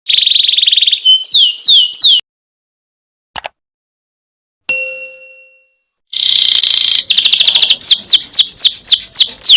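Domestic canary singing: a buzzing trill and a few quick downward-sliding whistles, then a pause broken by a soft click and a single bell-like ding that fades over about a second. About six seconds in the song resumes with a rapid trill and a fast run of sliding whistles, about three a second.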